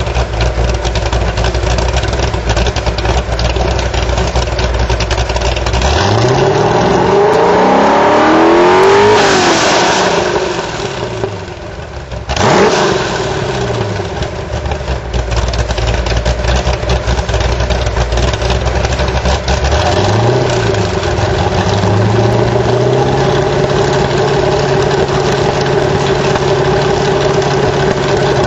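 1985 Corvette's 408-cubic-inch V8 through high-flow cats and a Corsa cat-back exhaust. It idles, then revs up slowly and back down about six seconds in, gives a sharp blip around twelve seconds and a short one near twenty, and then holds a steady higher rpm.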